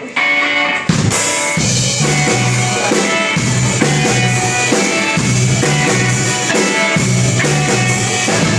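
Rock band playing: strummed electric guitar, joined about a second in by a full drum kit and bass guitar.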